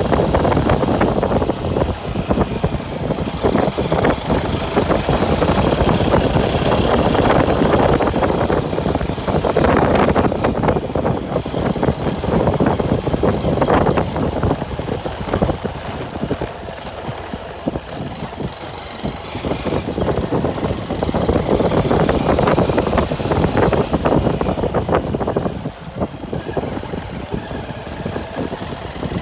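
Motorcycle engine running on the move, with wind rushing over the microphone. The sound eases off twice, in the middle and near the end.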